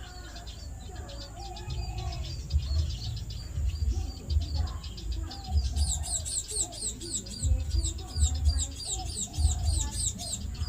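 Java sparrows chirping busily, breaking into a fast run of repeated high chip notes, about three or four a second, from halfway through. Uneven low thumps sit underneath.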